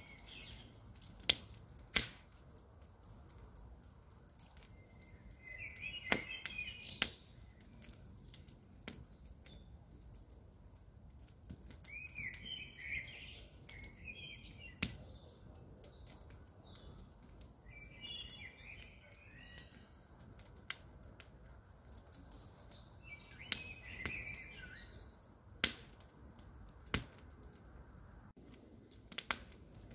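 Campfire crackling: sparse, irregular sharp pops and snaps from the burning wood over a faint low rumble. Birds chirp in short bursts every few seconds.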